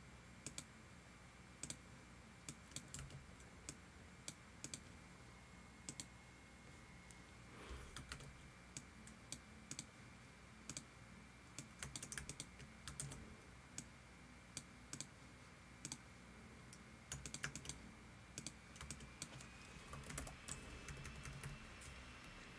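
Faint, scattered clicks of a computer keyboard and mouse, coming singly and in quick little clusters at irregular intervals.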